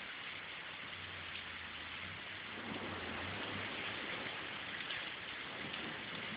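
Steady rain falling, an even hiss of drops, with a faint low hum underneath for the first few seconds.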